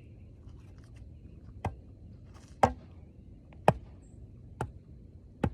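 Sharp strikes of a hand tool, five in all, evenly paced about one a second.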